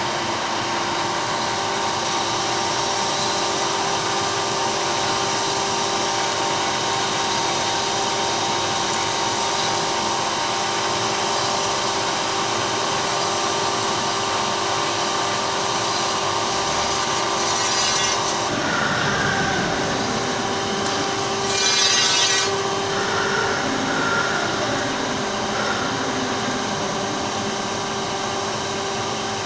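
Crankshaft grinding machine grinding a connecting-rod journal of a Hyundai G4KE crankshaft to the first undersize: a steady grinding hiss over a constant machine hum. The sound changes about two-thirds of the way through, with two short louder hissing spells.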